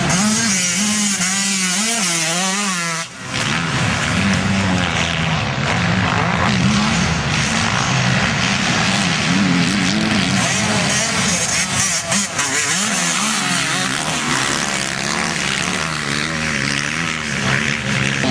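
Motocross motorcycle engines running hard on a track, their pitch rising and falling as the riders open and close the throttle, with a brief sudden drop in level about three seconds in.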